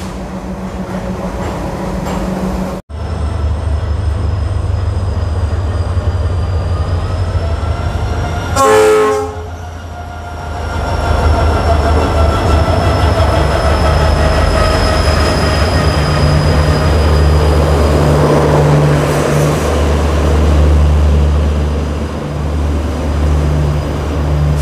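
A locomotive-hauled passenger train pulls into a station platform. Its locomotive passes close by with a low, steady rumble and sounds one short horn blast about nine seconds in. Its coaches then roll past with rail noise.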